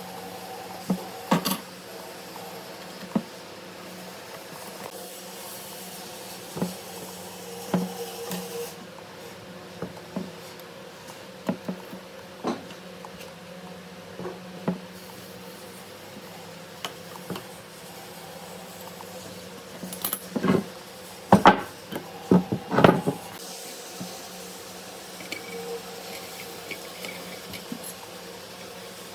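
Workshop sounds: scattered sharp knocks and clicks, like wooden parts being handled and set down, over a steady low hum. A quick run of louder knocks comes about two-thirds of the way through.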